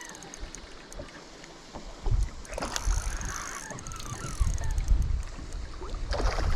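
Wind rumbling on the microphone in gusts from about two seconds in, over faint water and boat noise.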